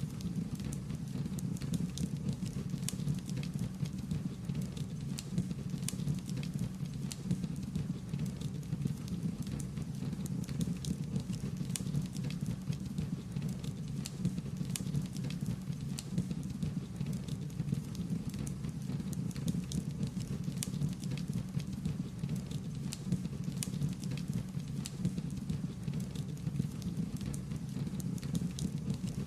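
Wood fire crackling: a steady low rumble of burning with frequent, irregular sharp pops and snaps.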